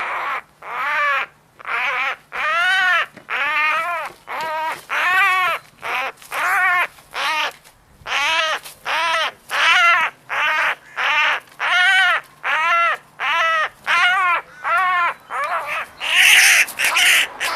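A crow calling over and over, loud harsh caws about one a second, each rising and falling in pitch, with a harsher, noisier burst near the end: alarm or distress calling while a falcon attacks a crow.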